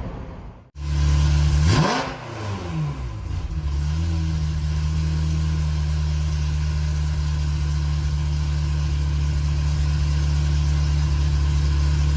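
Ferrari F355's 3.5-litre flat-plane V8 exhaust: a quick blip of the throttle, revs rising sharply and falling back, then running steadily at low revs. A brief drop-out under a second in comes just before the blip.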